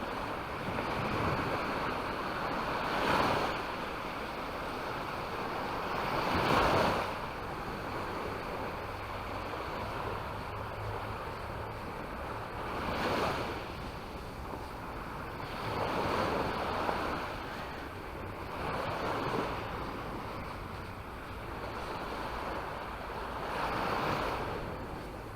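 Sea waves breaking and washing onto the beach, each one swelling and fading every few seconds.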